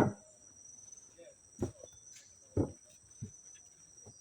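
A steady, shrill insect chorus made of two high continuous tones, with a few dull thumps scattered through it. The loudest thump comes right at the start.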